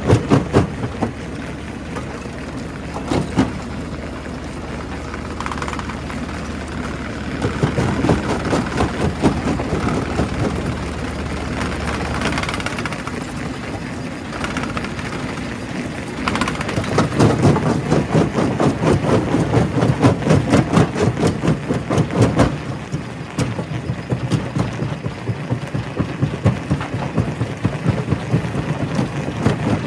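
Primary rock crusher working, machinery running under a dense, rapid clatter of stone knocking and cracking as rock is broken. A steady low hum drops out about halfway, and the knocking grows louder and busier for several seconds after that.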